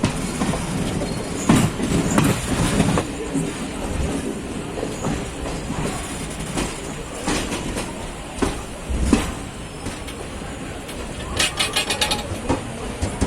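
Passenger train running on the rails, with wheels knocking over rail joints at irregular intervals over a steady running rumble, and a quick run of clacks near the end.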